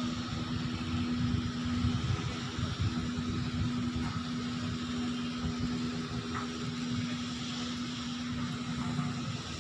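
Heavy machinery running steadily, a constant low hum over a rumble, as the ship is hauled up the rail slipway by wire.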